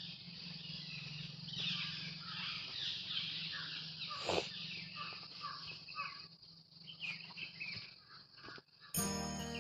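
Small birds chirping and calling, many short chirps one after another, over a faint steady hum, with a single sharp knock about four seconds in.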